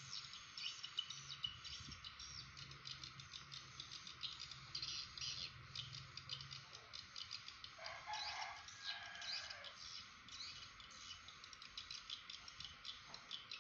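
Faint birds chirping: many short, rapid chirps over a steady background hiss. A louder, lower call stands out about eight seconds in.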